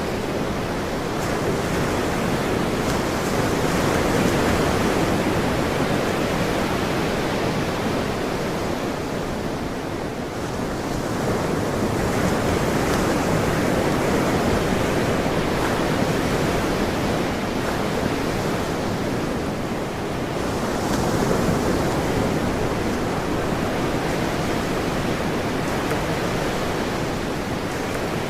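Ocean waves washing onto a shore, a continuous rushing surf that swells and eases every several seconds.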